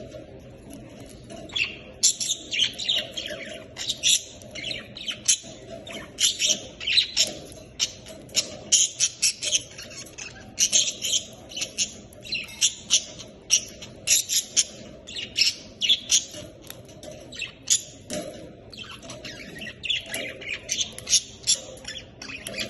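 Budgerigars chattering, a dense run of quick high chirps and squawks that starts about a second and a half in.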